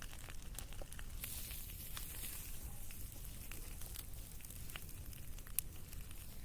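Wood campfire burning, crackling with scattered sharp pops and a stretch of hissing about a second in; one louder pop near the end.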